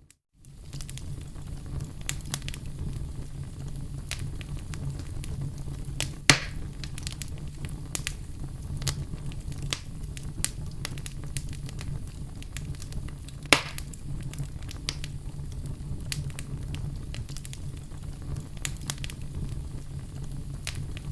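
Wood fire burning in a fireplace: a steady low rumble with frequent small crackles and two louder pops, about six and thirteen seconds in. The sound drops out for a moment right at the start.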